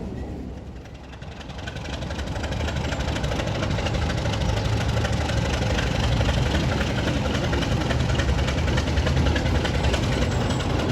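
Diesel locomotive engine running steadily at idle, growing louder over the first two seconds and then holding a steady low hum.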